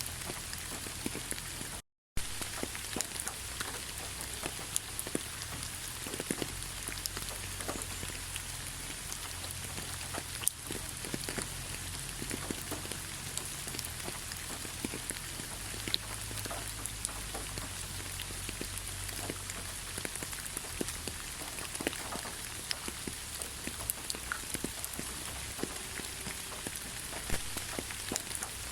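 Steady rain, an even hiss dotted with many sharp ticks of individual drops striking a surface. The sound cuts out completely for a split second about two seconds in.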